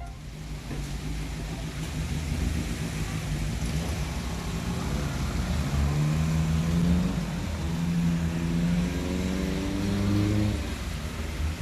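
A motor vehicle running amid a steady rushing noise; its engine note rises and falls between about five and ten seconds in.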